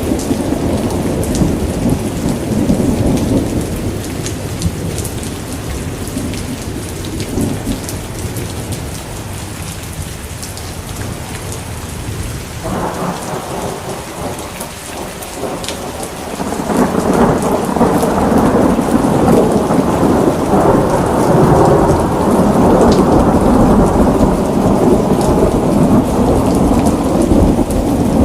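Steady rain falling with rolling thunder rumbling underneath; the thunder eases off in the middle and swells up again louder about seventeen seconds in.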